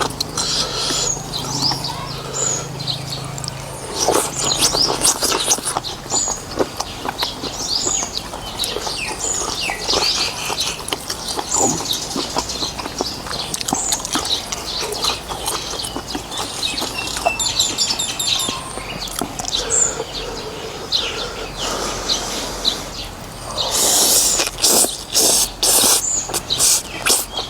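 Small birds chirping over and over, with scattered clicks, and a noisy burst of rapid clicks near the end.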